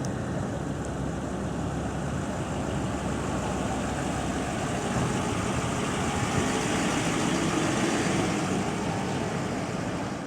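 A truck running, a steady engine noise that grows a little louder in the second half.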